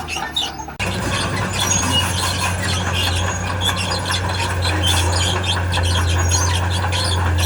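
Diesel engine of a tracked earthmoving machine running steadily, with many short squeals and squeaks from its steel tracks. The sound drops out briefly just under a second in, then carries on louder.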